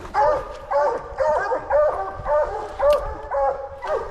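Two coonhounds barking steadily at a tree, about two barks a second with their barks overlapping: the sign of a treed raccoon.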